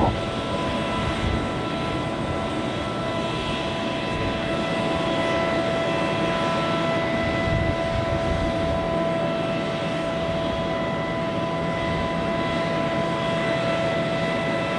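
Private jet's engines running on the tarmac: a steady whine of several high tones over a constant rushing noise.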